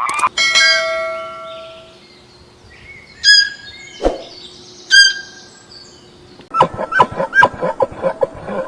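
A bell-like struck tone ringing out, then three sharp, separate dings, then a quick run of struck notes near the end.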